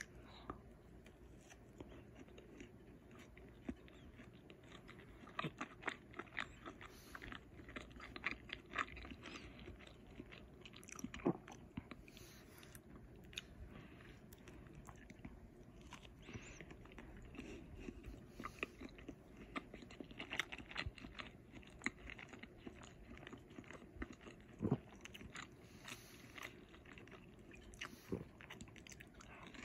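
A person biting and chewing a breaded chicken strip with ketchup: many small, irregular clicks and crackles of chewing, with a few louder bites.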